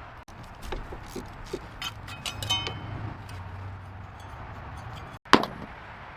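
A series of scattered knocks and clicks, with one ringing metallic clink about two and a half seconds in and a loud sharp knock just after five seconds.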